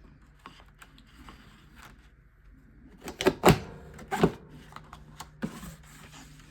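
Rustic truck border punch pressed down through cardstock: a few sharp mechanical clunks, the loudest about three seconds in, another just after four seconds and a lighter one past five, with soft clicks of paper handling before them. The punch is new and still being broken in.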